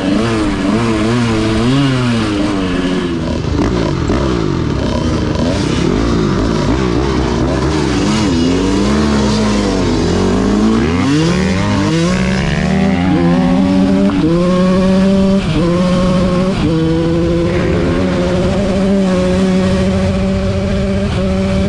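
Dirt bike engine being ridden on a trail. The engine pitch swings up and down with the throttle, then holds steadier and higher in the last third with a few brief dips.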